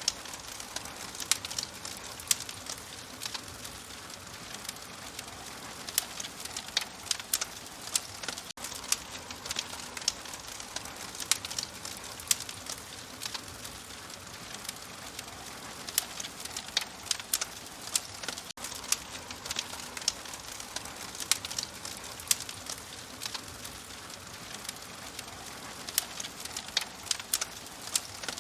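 Wood fire in a fireplace crackling: irregular sharp pops and snaps, several a second, over a steady soft hiss.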